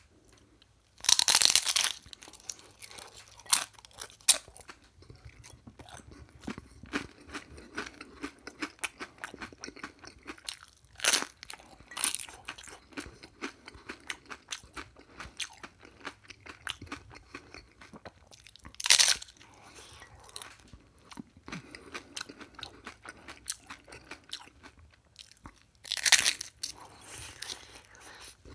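Close-miked eating of a crisp fried shell loaded with meat, sour cream and pickles: four loud crunching bites spaced several seconds apart, with crunchy chewing crackling steadily between them.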